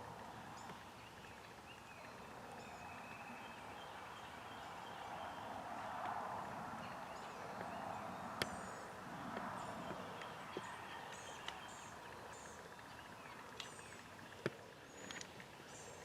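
Rural outdoor ambience with songbirds chirping on and off, and two sharp clicks, about eight and fourteen and a half seconds in.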